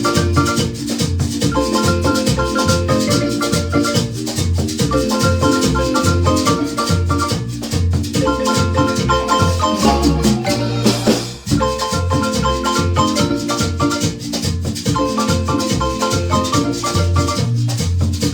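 Marimba ensemble playing upbeat dance music: repeating mallet-struck melody over a steady bass beat, with rattle percussion. There is a brief break in the rhythm about eleven seconds in.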